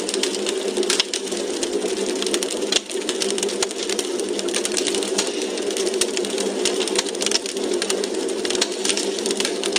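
Wood fire crackling in a fireplace: dense, irregular pops and snaps over a steady low rushing noise.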